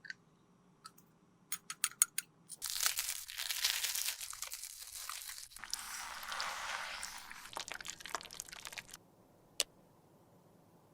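Makeup being worked by hand: a few sharp clicks of compacts and tools, then several seconds of crunching and scraping as pressed makeup is crushed and mixed, and a last click near the end.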